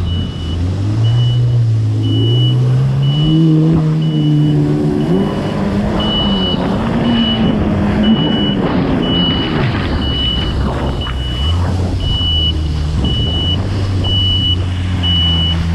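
Engine running at low revs, its pitch climbing and falling back several times. A short high beep repeats about once a second, like a reversing alarm.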